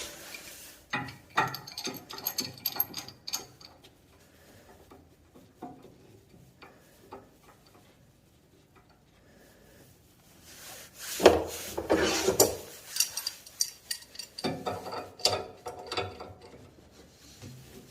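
Adjustable wrench working a brass and copper pipe union: metal clicking and scraping in three bouts, about a second in, around eleven seconds, and again from about fourteen seconds.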